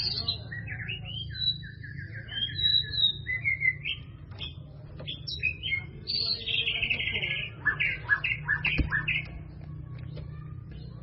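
White-rumped shama (murai batu) singing a fast, varied song of clear whistles, rapid trills and harsh chattering phrases, which stops near the end.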